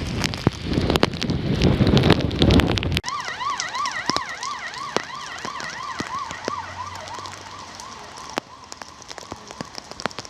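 For about three seconds a loud noisy rush with many sharp taps, then an abrupt cut to an emergency vehicle siren rapidly rising and falling, about three cycles a second, which fades and settles into a steadier tone, with scattered taps continuing.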